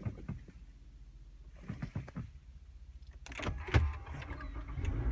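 Lexus ES250 started with its push button. A few light clicks come first. About three and a half seconds in, the starter cranks briefly and the 2.5-litre four-cylinder engine catches, settling into a steady idle hum near the end.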